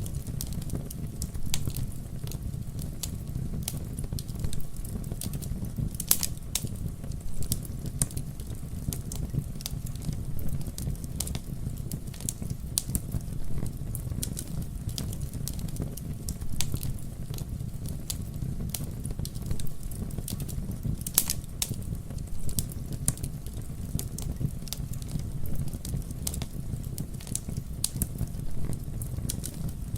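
Wood fire crackling, with frequent small snaps over a steady low rumble and two louder pops, about six seconds in and about twenty-one seconds in.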